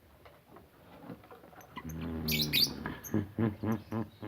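Lovebirds chirping: a few sharp, high chirps about two seconds in, over a low, pitched sound that pulses several times a second through the second half.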